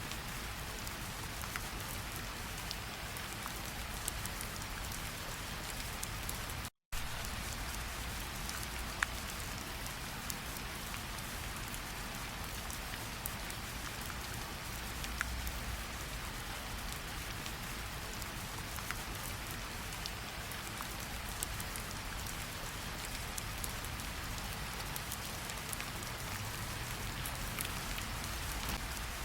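Steady rain falling, with individual raindrops ticking here and there through the even hiss. The sound cuts out completely for a split second about seven seconds in, then carries on.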